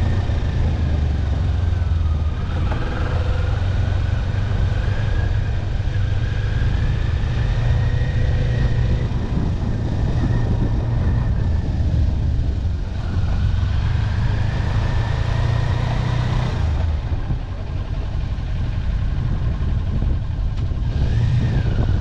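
Motorcycle engine running at low riding speeds under a heavy steady low rumble, its pitch slowly rising and falling as the throttle changes.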